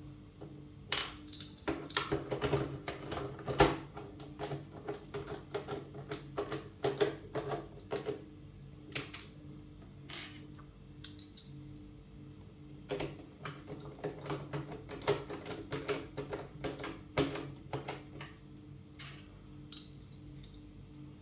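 IBM Model M buckling-spring keyboard keys being pressed in bursts of rapid, sharp clicks with short pauses between them.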